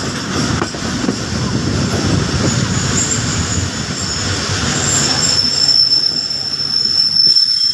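Passenger train running along the track, heard from on board: a steady rumble of wheels and carriages. About five seconds in, a high, steady wheel squeal starts and keeps on.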